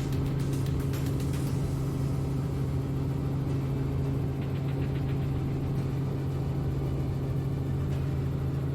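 Helicopter in flight, a steady, even engine and rotor drone at constant speed.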